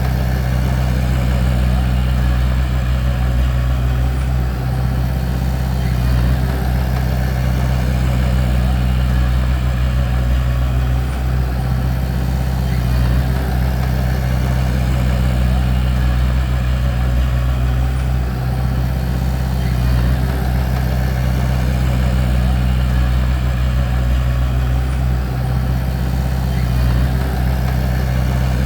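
Bulldozer's diesel engine running at a steady speed, with a deep, even drone that does not rise or fall.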